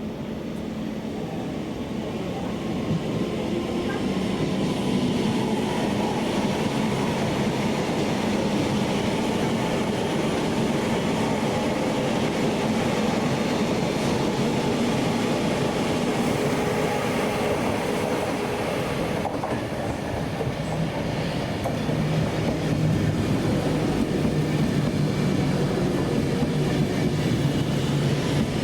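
A train moving through the station, with a steady low drone and wheel-on-rail noise that builds over the first few seconds and then holds.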